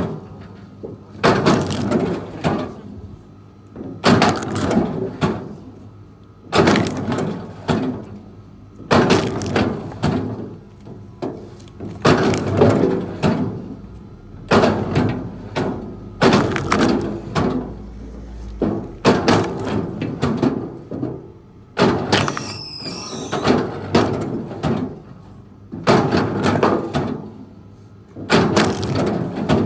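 Wood cracking and crunching in repeated bursts, about one every two seconds, over a faint steady hum. A brief wavering high squeal comes a little past two-thirds of the way through.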